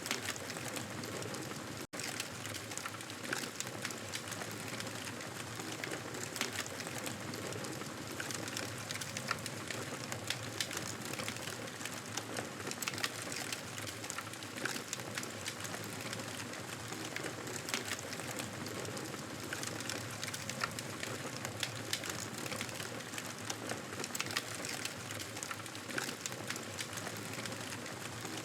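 Wood fire crackling in a fireplace: a steady hiss dotted with many small pops and crackles, broken by a split-second dropout about two seconds in.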